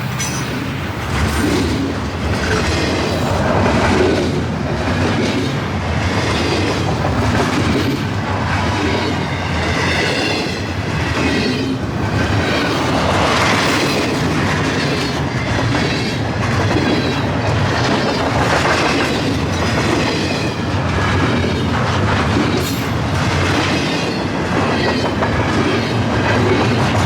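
A long intermodal freight train's cars rolling past at speed, a steady rumble with a rhythmic clickety-clack of wheels over the rail joints and a faint high squeal from the wheels at times.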